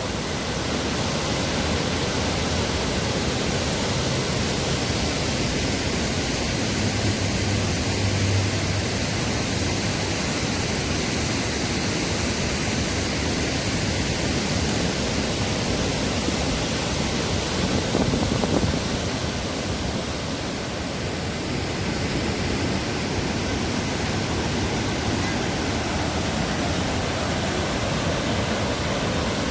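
Waterfall: a steady rush of falling water, even and unbroken, with a slight swell about two-thirds of the way through.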